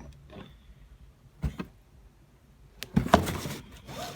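Cardboard box being handled and opened: a short knock about a second and a half in, then a louder scraping, rustling burst around three seconds in.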